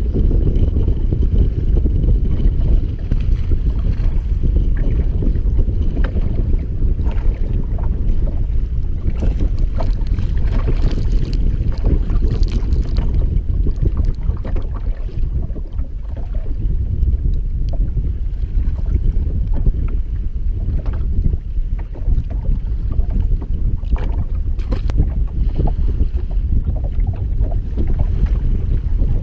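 Strong wind buffeting the microphone, a steady heavy low rumble, with occasional light ticks and taps over it.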